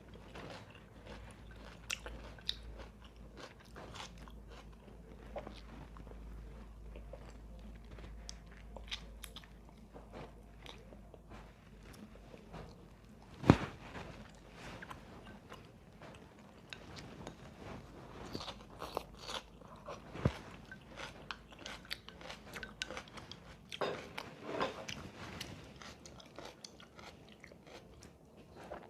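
Close-miked eating: a person chewing and crunching food with the mouth, with many small crisp clicks and crunches. One sharp crunch or click about 13 seconds in is the loudest, and another stands out about 20 seconds in.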